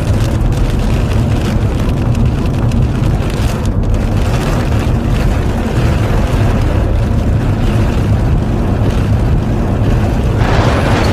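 Strong storm wind buffeting the microphone as a loud, steady low rumble, turning to a brighter rushing hiss about ten seconds in.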